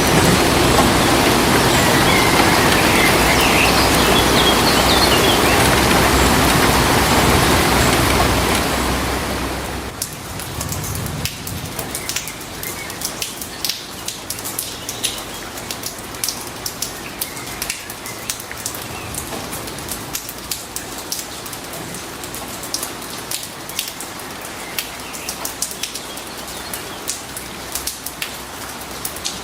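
Rain: a dense, loud hiss of heavy rain for about the first ten seconds, then it abruptly drops to lighter rain in which individual drops tick and patter.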